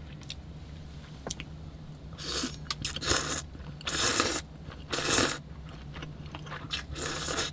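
A person eating cold buckwheat noodles, with five short slurps spread over the last few seconds, over a steady low hum.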